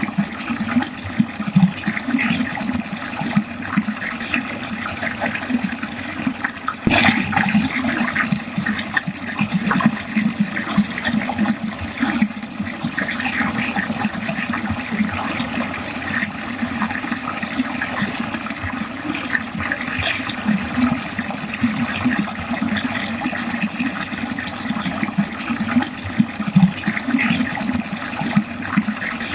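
Water running and gurgling down a drain in a steady, continuous flow, with a brief sharper splash or knock about seven seconds in.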